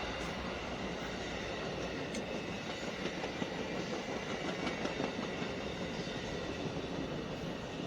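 Amtrak passenger train rolling past at track side: a steady rush of steel wheels on the rails, with a few light clicks.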